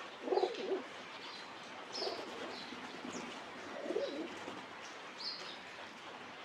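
Pigeons cooing, three low phrases about two seconds apart, with small birds chirping in short high notes in the background.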